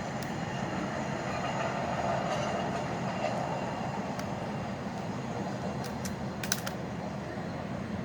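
A train moving on the tracks: a steady rumble, with a few sharp clicks about six and a half seconds in.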